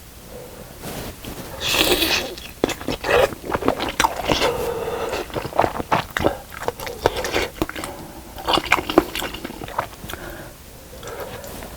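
A person eating fish cake soup with rice cakes close to the microphone: bites, chewing and crunching that come in irregular bursts.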